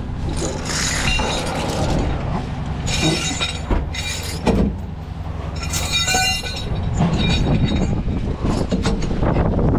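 A truck engine running steadily, with several loud clanks and jangles of metal rigging gear (chain, hooks and a snatch block) being handled, each ringing briefly.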